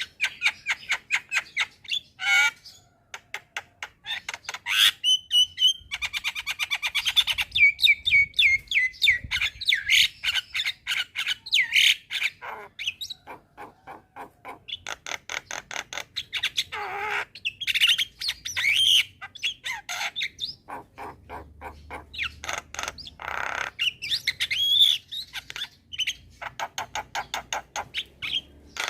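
Javan myna (jalak kebo) singing: long runs of rapid dry clicks, mixed with whistled notes and a few harsh squawks.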